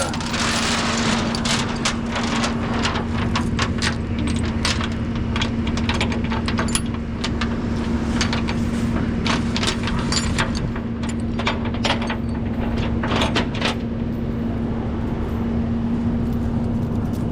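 A rollback tow truck's engine runs with a steady hum, while tie-down chains and hardware clink and rattle in many short metallic clicks as the load is secured.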